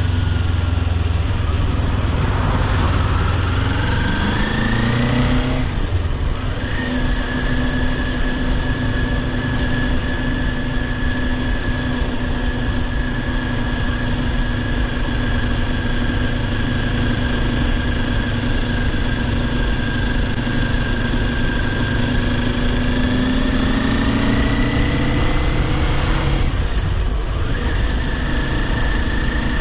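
Kawasaki Ninja 400's parallel-twin engine under way, with rushing wind noise. Revs climb and then drop at an upshift about six seconds in, the engine holds a steady cruise, then it revs up again and shifts up once more near the end.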